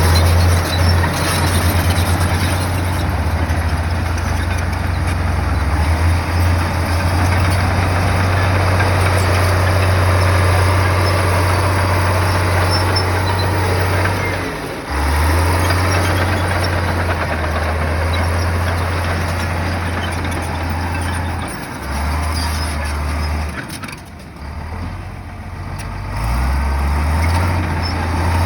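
Heavy bulldozer's diesel engine running under load: a steady, loud low drone with the machine's working noise over it. It drops off briefly about halfway through and dips a few times near the end.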